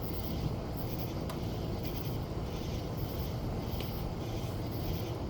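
Steady rain: a continuous hiss over a low rumble, with no single loud crack.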